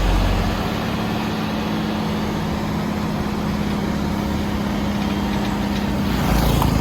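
Heavy truck's diesel engine running steadily with a low drone, getting a little louder near the end.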